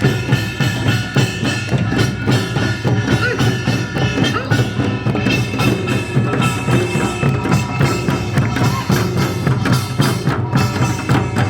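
Live Korean folk percussion music: rapid, continuous drum strikes over sustained ringing metallic tones.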